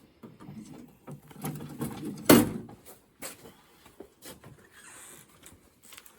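Irregular rustling, scuffing and small clicks from pigeons being handled, with one loud sharp knock a little over two seconds in.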